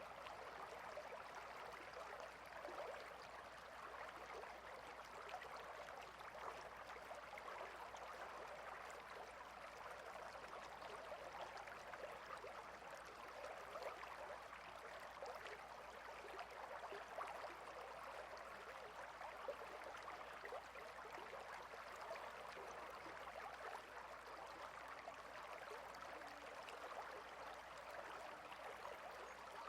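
Faint, steady babble of a small stream flowing over stones, an even trickling rush with no pauses.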